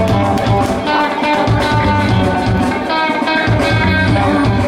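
Live rock band playing loudly, with guitars ringing over bass and drums.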